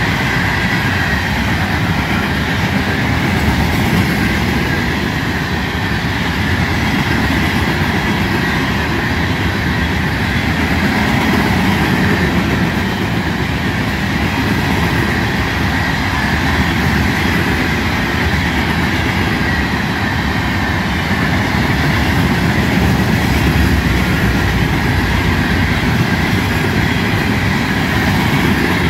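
Florida East Coast Railway freight train's hopper cars rolling past: a steady, loud rumble and rattle of steel wheels on the rails that stays even throughout.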